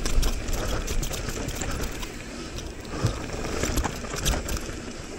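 Mountain bike riding down a rough dirt trail: steady tyre and wind rumble with scattered clicks and knocks as the bike clatters over bumps.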